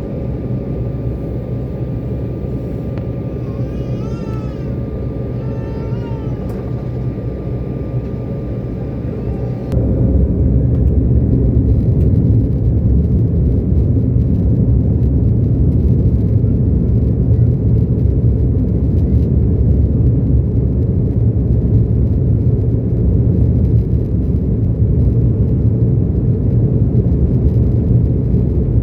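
Airliner cabin noise: a steady low rumble of jet engines and airflow that steps sharply louder about ten seconds in and holds there. Two short high-pitched squeaky sounds come a few seconds in.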